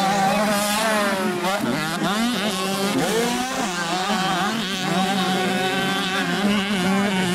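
Several 65cc two-stroke motocross bikes racing, their engines revving with the pitch rising and falling again and again as they accelerate and shift, over a steady low hum.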